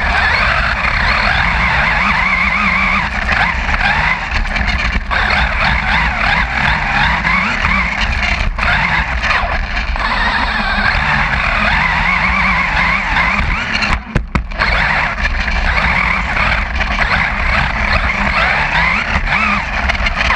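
A truck driving, its engine and road noise picked up by a camera mounted on the outside of the vehicle. The sound is loud and continuous, with a few brief dropouts.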